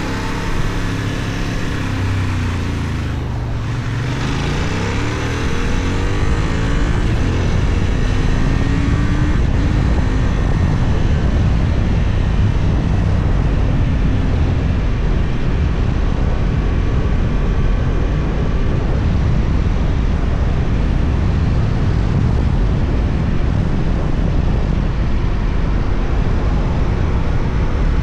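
Benelli Tornado 550's 554 cc parallel-twin engine under way, its revs falling and rising over the first several seconds. After that a steady loud rush of wind on the microphone at speed mostly covers the engine.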